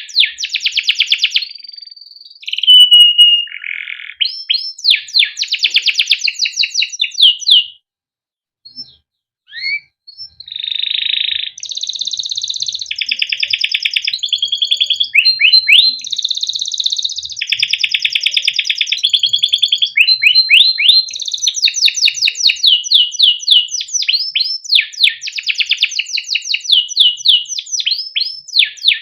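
Canary singing a long song: runs of repeated rising chirps ("cuit cuit") alternating with fast rolling trills, with a short break about eight seconds in before the song resumes.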